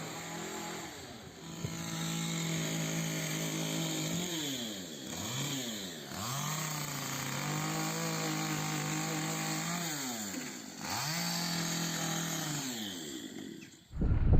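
A power tool's motor running at a steady high speed, its pitch dipping sharply and climbing back several times, then cutting off suddenly near the end.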